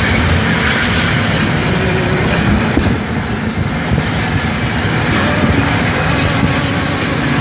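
Scania 113 truck's diesel engine held back on its engine brake while descending a steep mountain grade: a steady heavy drone that dips slightly about three seconds in.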